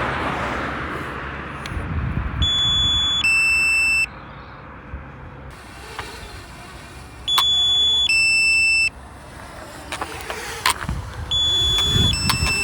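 DJI drone controller's low-battery warning alarm sounding: a two-note beep, a higher tone then a lower one, repeating three times about every four and a half seconds.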